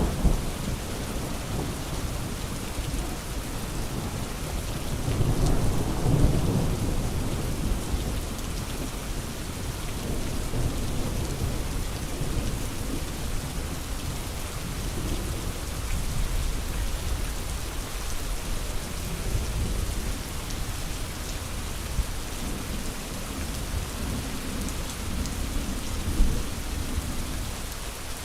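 Steady rain with low rolls of thunder that swell and fade, strongest about five to seven seconds in and again near the end.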